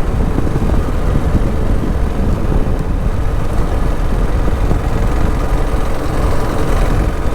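Motorcycle riding at a steady speed: a constant engine drone under heavy wind rumble.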